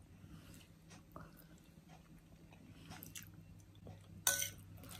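A person chewing a mouthful of salad: soft, quiet crunching and mouth sounds, with a brief louder crunch or clatter a little after four seconds in, over a faint steady hum.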